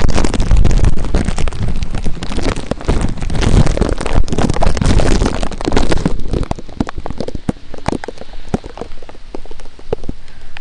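Rain falling, a steady hiss studded with many sharp close drop hits. A heavy low rumble fills the first half and eases off about six seconds in.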